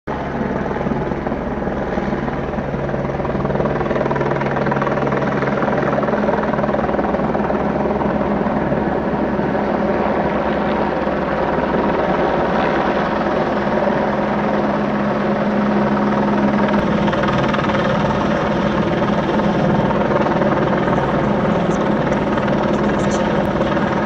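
Rotor aircraft hovering: a loud, steady droning hum with several held tones that shift slightly in pitch, cutting in abruptly at the start.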